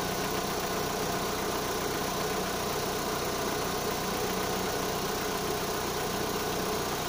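Opel Zafira A's 1.8 X18XE1 four-cylinder petrol engine idling steadily with a used replacement intake manifold fitted. A slight knock from the intake manifold is still there.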